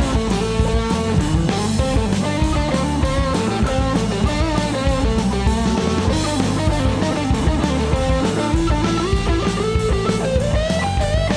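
Rock band instrumental break: an electric guitar plays a lead melody with bending notes over a steady drum kit beat.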